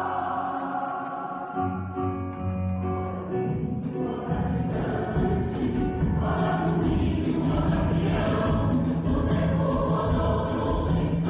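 A mixed choir singing held chords. About four seconds in, a steady rhythmic percussion beat joins and the choir sings on over it.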